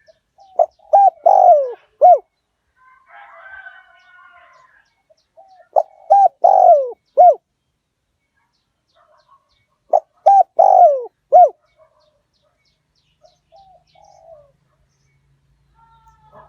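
Spotted dove cooing: three calls about four and a half seconds apart, each a couple of short notes, a long downward-sliding coo and a short final note. Another bird chirps faintly between the first two calls.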